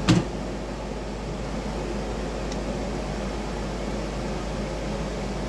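A single sharp click just after the start, then a steady whirring fan hum.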